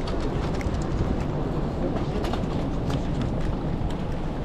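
City street ambience: a steady low rumble of traffic and a busy street, with scattered light clicks throughout.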